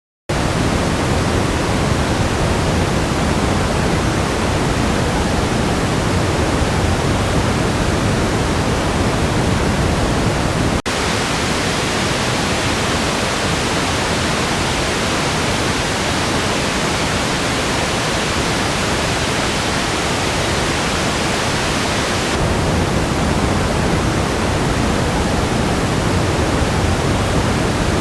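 Steady band-limited test noise, an even hiss with no pitch. About eleven seconds in it cuts abruptly to a brighter noise with more treble and less bass, and near the end the top end softens slightly.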